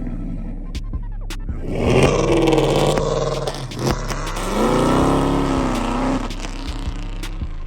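Muscle car engine revving hard twice, its pitch climbing and then dropping each time, with a few sharp clicks in between.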